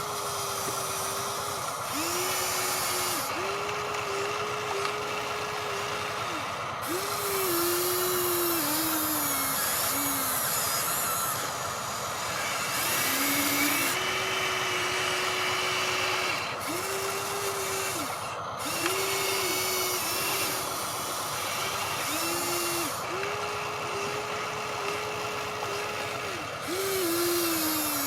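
Small electric motors of radio-controlled construction machines whining in short start-stop runs, the pitch sagging at times as they work under load.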